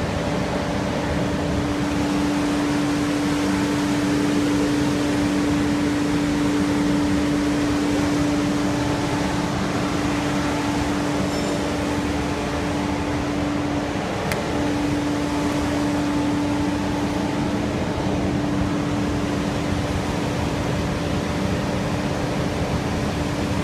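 Wide belt sanding machine running steadily: a constant machine hum with one steady tone over a broad rush of noise.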